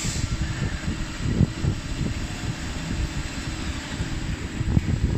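Continuous low, uneven rumbling machine noise from a robot-fed CNC machining cell, with faint steady tones over it.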